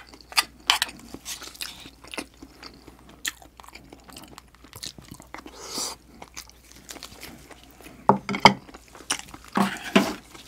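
Close-miked chewing and mouth sounds of a person eating a mouthful of rice and spicy stir-fried octopus: wet smacking clicks throughout, with a louder cluster near the end.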